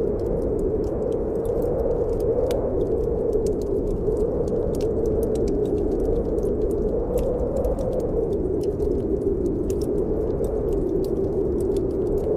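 Snowstorm wind blowing in a steady, slowly swelling and fading howl, with the irregular crackle and snapping pops of a wood fire burning in a fireplace.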